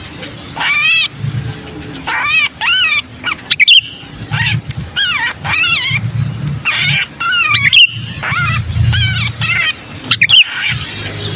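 Sooty-headed bulbul (kutilang) giving its 'kejepit' distress calls, the harsh, rapid, repeated scolding of a bird that has been caught, as used to lure other bulbuls. The calls come in short bursts of rising-and-falling notes with a low throb under many of them.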